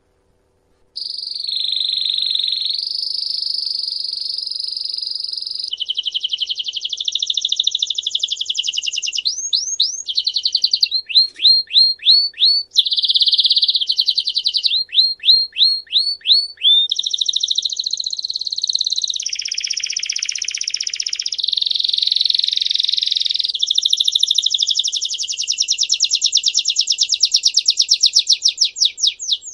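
A songbird singing one long continuous song of fast trills and rolls, switching to a new phrase every second or two, with runs of clear downward-sweeping notes at about four a second. It starts about a second in.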